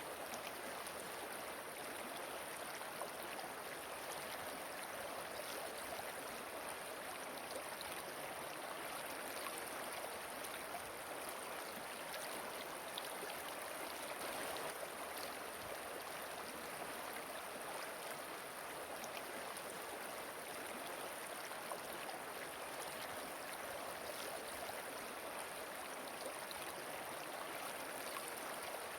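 Flowing water of a river or waterfall, running steadily as one continuous, even rush with no breaks.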